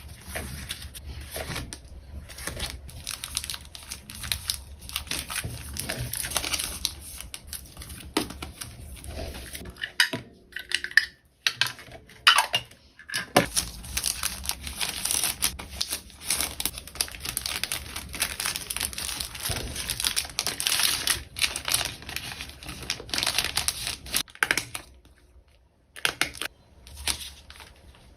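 Packaging being handled for an order: plastic wrapping and bags crinkling and rustling in irregular bursts, with small clicks and taps. There are a couple of brief pauses.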